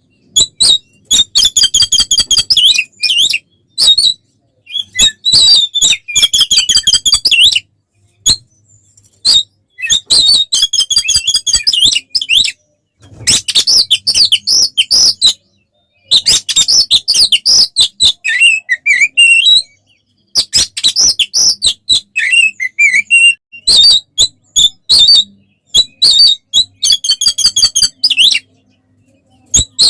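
Oriental magpie-robin (kacer) in full, aggressive fighting song. It comes in loud bursts of rapid, varied high-pitched notes and trills, each lasting one to four seconds, with sudden short silences between them.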